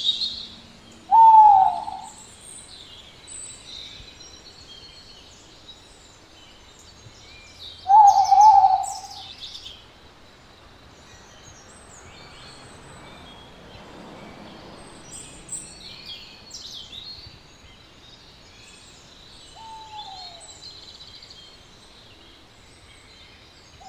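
An owl calling three times, each a short call falling in pitch: about a second in, again at about eight seconds, and more faintly near twenty seconds. Faint high chirps of small birds or insects run behind.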